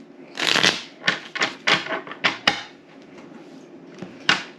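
Playing cards laid and snapped down one by one on a tabletop: a quick run of sharp taps, about three a second, then a pause and one last tap near the end.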